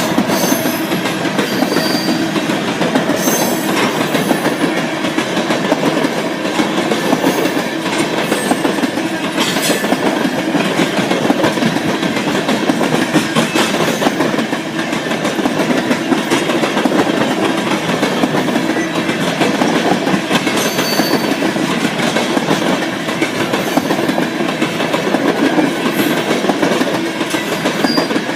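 Mixed freight train rolling past, a steady rattle and rumble of cars with wheels clicking over the rail joints.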